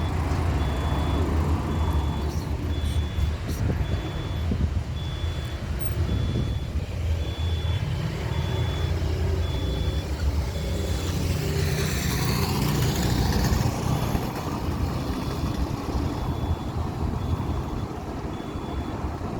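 Boeing 737-300F cargo jet's CFM56 engines running as it passes close by on arrival: a continuous rumble that swells to a peak about twelve seconds in, with a sweeping hiss as it goes past. An evenly spaced high beep repeats at about one a second, like a vehicle's reversing alarm.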